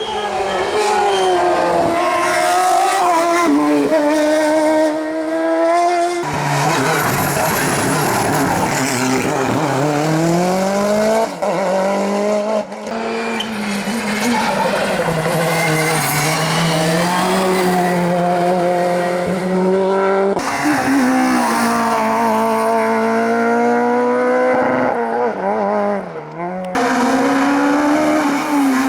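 Competition car engines at full throttle up a hillclimb, revving up through the gears, lifting and pulling again, with some tyre squeal. The sound changes abruptly about four times as it jumps to a different car.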